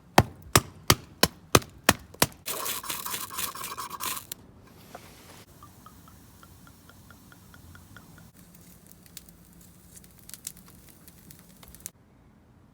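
Seven sharp knocks at about three a second, then a harsh scrape lasting under two seconds, then faint regular ticking and scattered small crackles.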